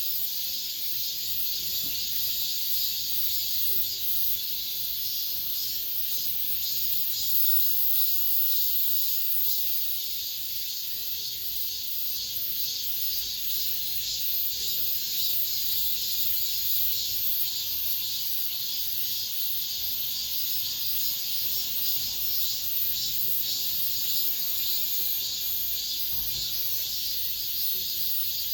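Cicadas singing in chorus: a steady, dense, high-pitched buzzing with a fine rapid pulse that never lets up.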